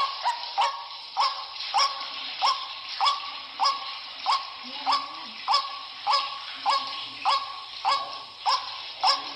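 White-breasted waterhen giving its repeated croaking "kru-wak" call, about three calls every two seconds at an even pace. This is the bird's calling chorus used as a lure to draw other waterhens in.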